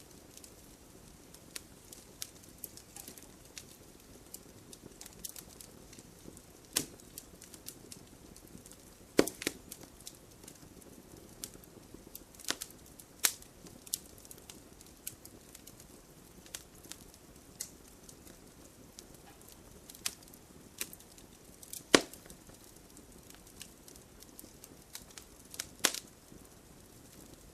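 Fire burning in a fireplace, crackling: irregular sharp pops over a soft steady hiss, a few pops much louder than the rest.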